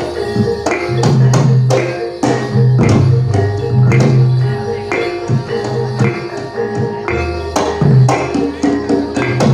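Javanese jathilan dance accompaniment: a percussion-led gamelan-style ensemble playing a steady beat, with drum and metal percussion strikes over ringing pitched notes and deep sustained bass tones.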